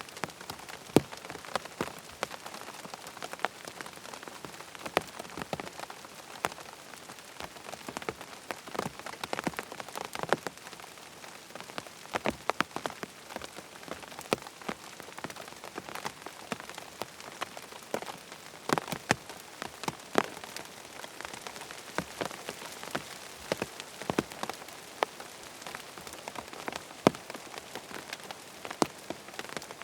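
Steady rain pattering on a tent's fabric, a constant hiss with many irregular, sharper drop taps.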